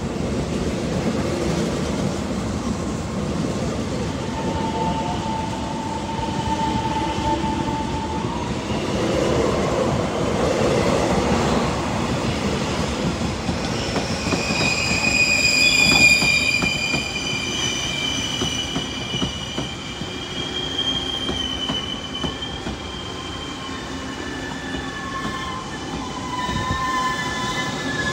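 Taiwan Railway EMU800 local train running out along the platform with a low rumble and a steady whine. From about halfway in, high shrill wheel squeal of several tones sets in, and near the end an orange-and-white push-pull Tze-Chiang express comes in on the next track.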